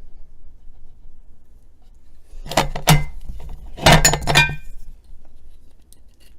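Kitchen utensils clinking against a mixing bowl as batter ingredients go in: a couple of sharp clinks about two and a half seconds in, then a quicker run of several a second later.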